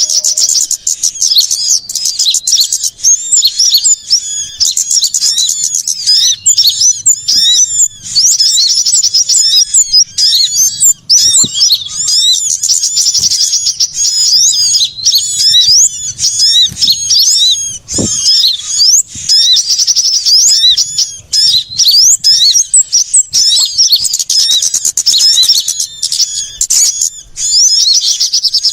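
Dense, loud chorus of small songbirds chirping and twittering in rapid, overlapping high trills without a break: a bird-trapping lure recording of agitated small-bird calls used to draw small birds in.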